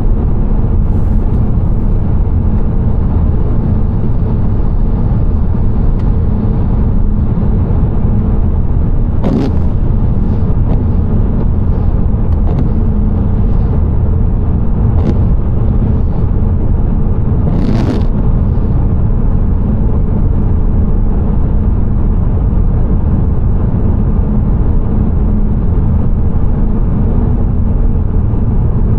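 Steady low road and engine rumble of a car driving, as picked up inside the moving car, with two brief sharp knocks about 9 and 18 seconds in.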